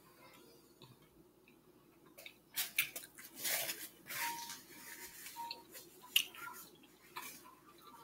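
A person chewing a mouthful of food, with irregular sharp mouth clicks and smacks. It begins about two and a half seconds in, after a quiet start.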